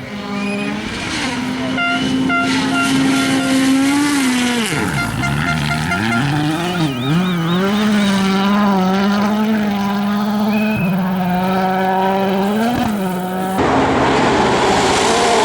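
VW Polo R WRC rally car's turbocharged 1.6-litre four-cylinder engine at high revs. It holds a steady pitch, dips sharply about five seconds in, climbs back and holds steady again, then switches abruptly to a harsher, noisier engine sound near the end.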